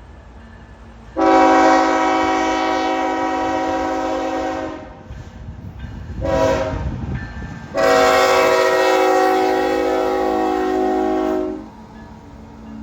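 Locomotive air horn sounding a chord in three blasts: long, short, then long again. The low rumble of the train runs beneath, strongest between the blasts.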